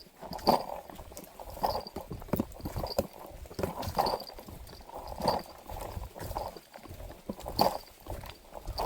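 Slow footsteps on wet ground, about one step a second at an uneven pace.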